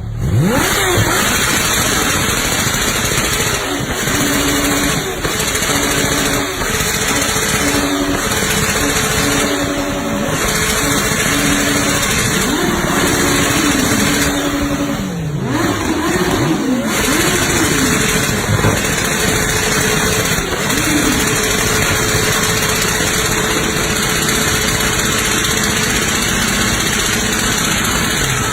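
Kawasaki Ninja H2R motorcycle's supercharged inline-four engine running and being revved, its pitch rising and falling in a run of blips about halfway through.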